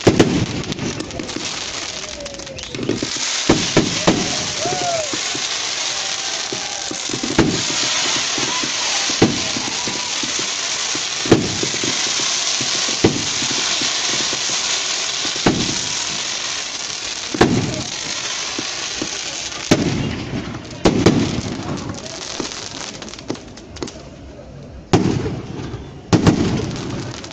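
Fireworks and firecrackers going off: repeated sharp bangs and pops at irregular intervals over a dense crackling hiss that thins out after the middle.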